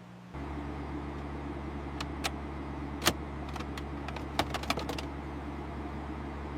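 A steady low mechanical hum, like lifting gear running, comes in a moment in and holds, with scattered light metallic clinks of lifting chains and hooks through the middle.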